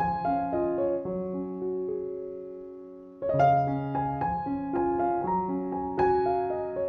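Background piano music: a gentle melody whose phrase fades away, then starts again with a strong chord about three seconds in.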